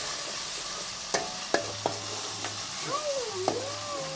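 Food sizzling steadily in hot oil in a deep wok while it is stirred, with a few sharp clicks of the spatula against the pan. A faint wavering tone rises and falls near the end.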